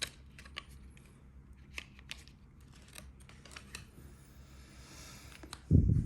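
Handling of a Zippo lighter and its box: scattered light clicks and small knocks. About five and a half seconds in comes a loud, dull low thump.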